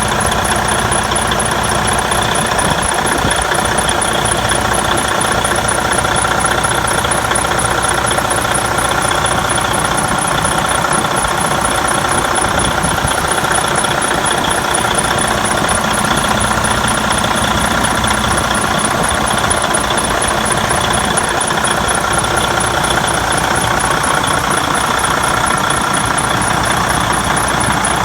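Detroit Diesel DD15 14.8-litre inline-six diesel in a Freightliner Cascadia semi tractor idling steadily and evenly.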